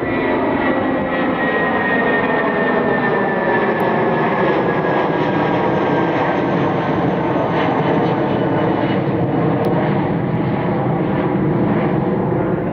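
Jet engines of a Spirit Airlines Airbus A320-family airliner running loud and steady as it passes, with a high whine that slowly falls in pitch over the first six seconds.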